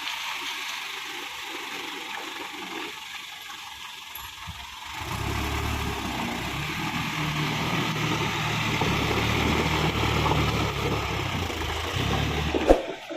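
Isuzu dump truck's diesel engine running; about five seconds in it comes in louder with a steady low hum, and a single sharp knock sounds near the end.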